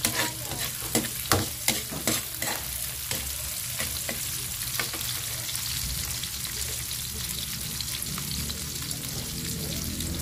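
Sliced shallots and garlic sizzling in hot oil in a steel wok, with a metal spoon clinking and scraping against the pan several times in the first few seconds as it stirs, then steady sizzling.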